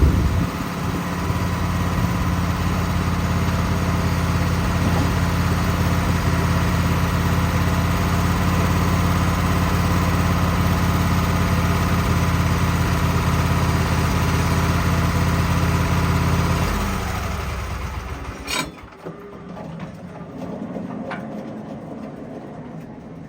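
Wood-Mizer portable band sawmill running steadily while it saws a birch log. About three-quarters of the way in, the sound winds down over a second or so and cuts off, followed by a single sharp click.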